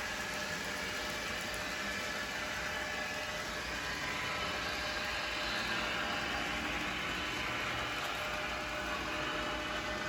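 Model train running on the layout: a steady whirring hum with faint engine-like tones.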